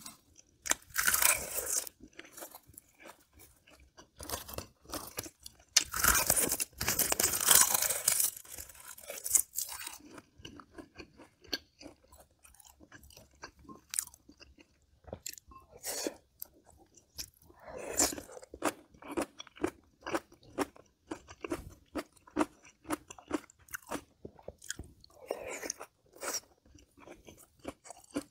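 A person chewing and crunching food close to the microphone, with loud crunchy bites about a second in and again from about six to nine seconds in, then quieter steady chewing with small wet clicks.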